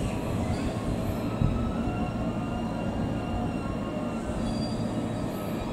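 Electric commuter train moving through station trackwork: a steady low rumble with several thin high tones held above it, and a single louder knock about a second and a half in.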